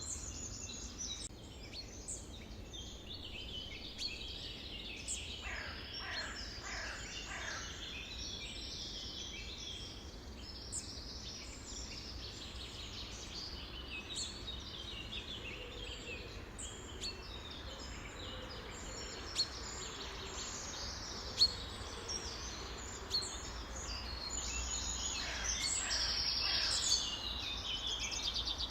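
Many songbirds chirping and singing at once in a dense chorus of short overlapping calls, with a few calls gliding downward in pitch early on and a busier burst near the end. A few sharp clicks stand out, the loudest about 21 seconds in, over a steady low hum.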